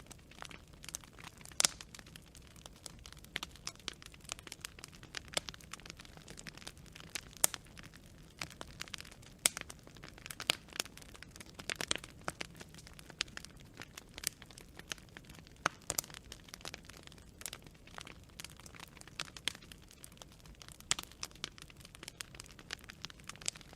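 Wood campfire burning, with irregular sharp crackles and pops over a faint low rush of flame.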